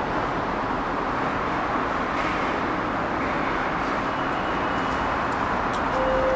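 ICE high-speed train running past on a far station track: a steady rush of wheel and running noise, with a few faint high clicks in the second half.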